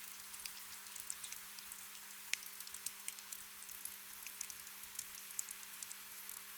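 Gentle rain: a soft, even hiss with many scattered drops ticking close by, over a faint steady hum.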